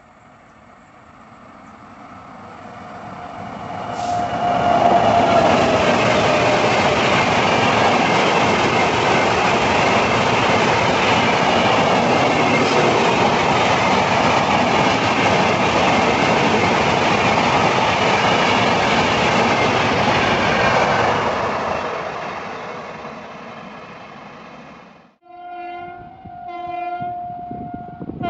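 Express train passing at speed: rumble and wheel clatter build over the first few seconds, stay loud for about fifteen seconds, then fade. Near the end, after a sudden cut, a locomotive horn sounds a few short blasts.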